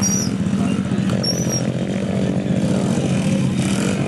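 Small single-cylinder pit bike engine running steadily at moderate revs close by, with a fast buzzing firing rhythm.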